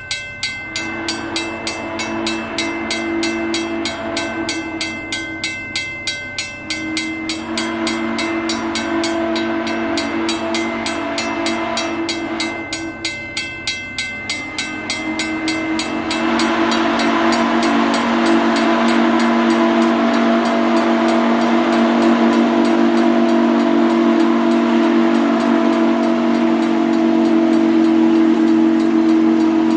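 Frisco #1352's chime whistle sounding a chord of several notes. It gives two blasts, then from about halfway a long held blast that grows louder. A quick, steady beat runs under the first half.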